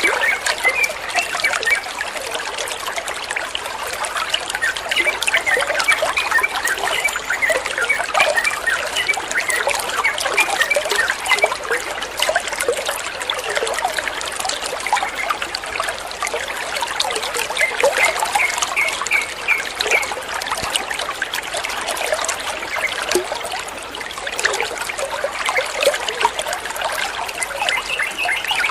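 Water trickling and splashing steadily, like a small stream or fountain, with short, quick bird chirps mixed in throughout.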